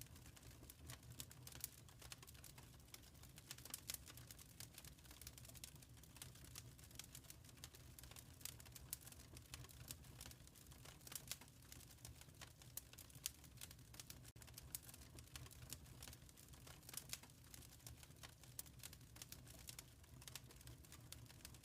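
Wood fire in a fireplace crackling softly, with frequent small irregular pops and snaps over a low steady rumble.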